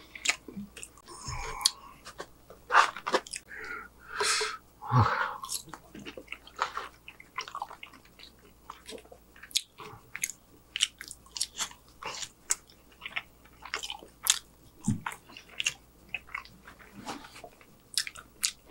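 A person chewing and biting fried chicken and French fries: many short, sharp crunches and wet mouth clicks, scattered irregularly.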